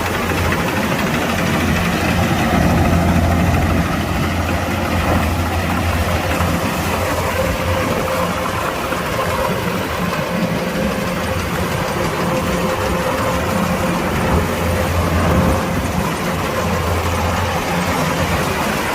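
Kubota DC-105X combine harvester's diesel engine running steadily, a constant low hum with a faint higher whine over it.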